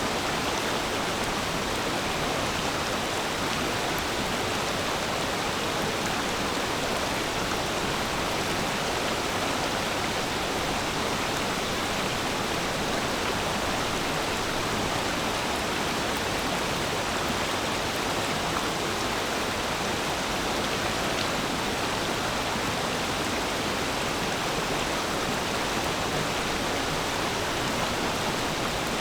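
Forest stream flowing and babbling, a steady, even rush of water with no breaks.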